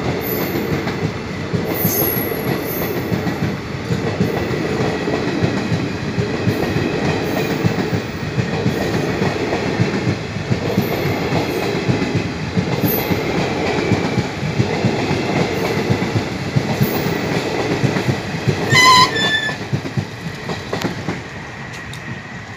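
Passenger coaches rolling past at speed: a steady rumble with the wheels clattering over the rail joints. A short, loud horn beep sounds about 19 seconds in, and the train noise falls away near the end as the last coach passes.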